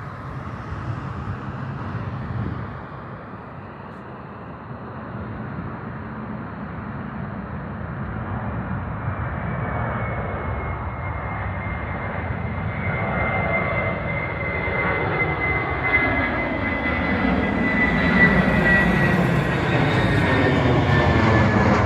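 Jet airliner taking off, its engines at takeoff power growing steadily louder as it comes closer, with a high whine that sets in about halfway and slowly falls in pitch.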